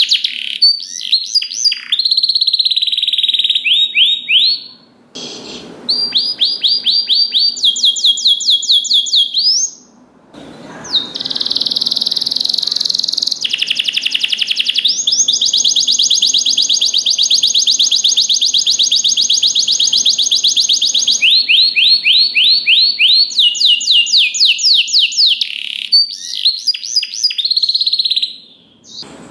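Domestic canary singing: high, rapid trills of quickly repeated notes that change from phrase to phrase, including one long, even rolling trill in the middle. The song breaks off briefly twice.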